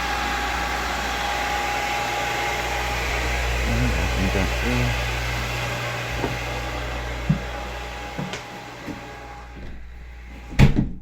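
Steady hum of machinery in a yacht's engine room, a low drone with a thin whine, fading away over the second half. A few light knocks, then one loud thump near the end.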